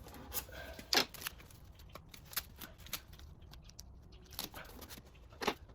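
Painter's tape being handled and pressed into the gaps around a car headlight: a handful of short, separate crackles and rustles.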